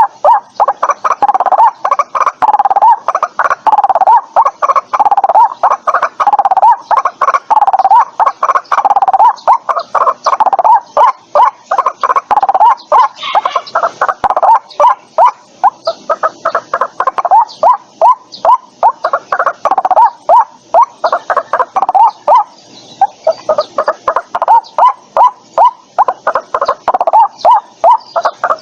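White-breasted waterhen calling: a long, fast run of loud, harsh repeated notes, several a second, without pause.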